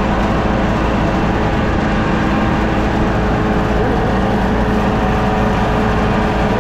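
Large farm machine's engine running steadily at constant speed: an even drone with a steady hum on top.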